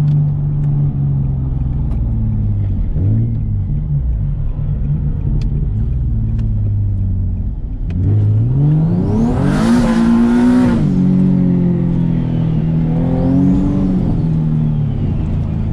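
Turbocharged Nissan 370Z's 3.7-litre V6 running at steady revs, then pulling hard from about eight seconds in, its pitch climbing with a rising turbo whistle and a loud rush of hiss until it drops off. A second, shorter pull with turbo whistle rises and falls near the end.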